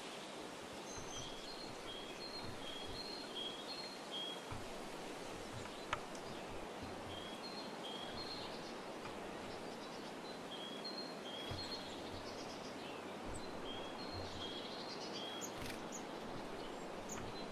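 A small bird singing a repeated two-note phrase, high then low, in several runs separated by short pauses, over a steady hiss of outdoor background noise. A single sharp tick sounds about six seconds in.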